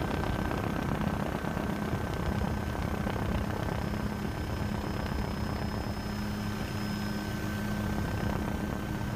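A steady engine hum over an even rushing noise, with a faint held higher tone.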